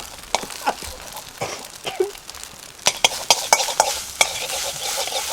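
Fried rice being stirred in a wok over a campfire: sharp scraping and clinking strokes of the utensil against the wok, with sizzling that grows thicker in the second half.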